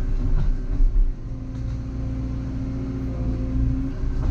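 Volvo EC140EL excavator's diesel engine running steadily under hydraulic load, with a heavy low knock or two about a second in.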